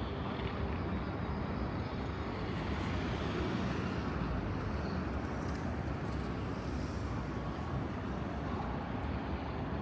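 Steady low rumble of urban traffic and vehicles, swelling slightly a few seconds in.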